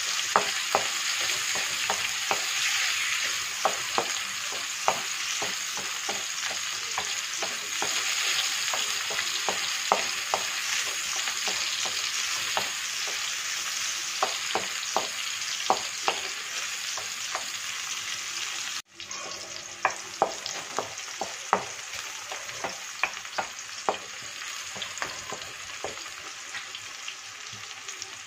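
Sliced onions and garlic sizzling in oil in an aluminium wok, stirred with a wooden spoon that scrapes and knocks against the metal many times. The sizzle cuts out for an instant about two-thirds of the way in, then carries on quieter.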